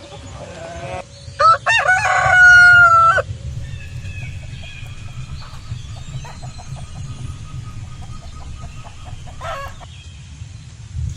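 A rooster crowing once, loudly, about a second in: a rising call held for about two seconds. Quieter chicken clucking follows, over a steady low rumble.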